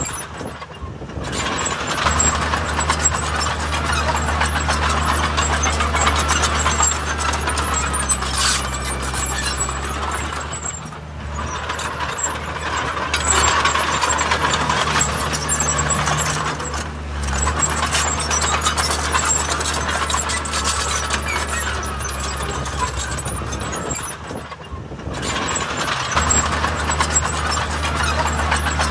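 Heavy diesel construction machinery running steadily at work, easing off briefly a few times.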